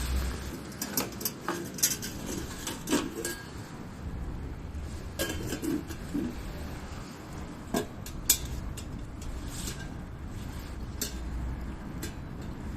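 Metal cookware and utensils clinking and knocking together in irregular, scattered strikes, over a low rumble of wind on the microphone.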